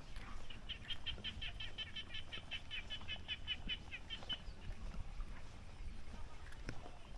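A bird calling a rapid series of short, high, evenly spaced notes, about five a second, for roughly four seconds.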